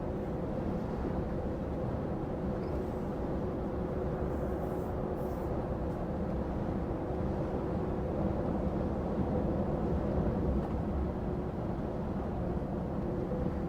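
Steady engine and road noise heard inside a lorry cab while driving, with a constant low drone.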